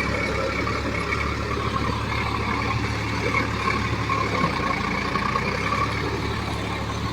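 Heavy diesel engine running steadily under load.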